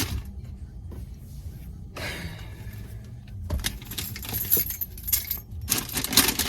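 Keys jangling with clicks and rustling as things are handled, sparse at first, busier about two seconds in and louder near the end.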